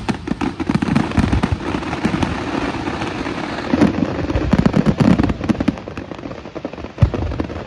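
Fireworks display going off: a dense run of bangs and crackles with deep thumps throughout, and one sharp bang about seven seconds in.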